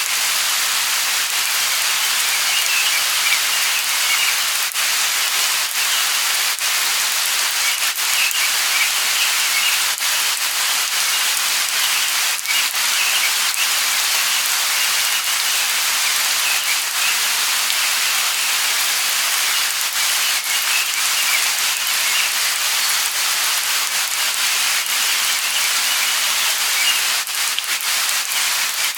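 Steady light rain falling, an even hiss with many small drop ticks throughout.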